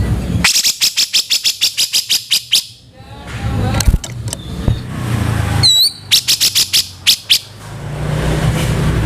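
Grey-cheeked bulbul (cucak jenggot) giving rapid runs of harsh, rattling notes, about eight a second: one run in the first half and a shorter one later, with a brief curling high note between. A low rumble lies underneath in places.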